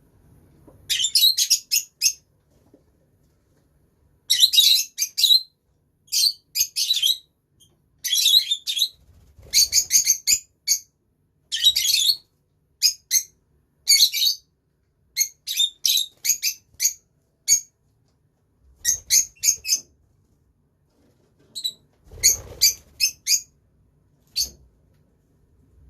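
Lovebirds calling in a run of short, shrill, high chirps, coming in quick clusters every second or two with brief pauses between.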